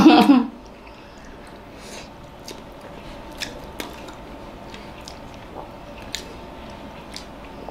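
A person chewing and biting mouthfuls of hard-boiled egg: soft, wet mouth sounds with faint, irregular clicks.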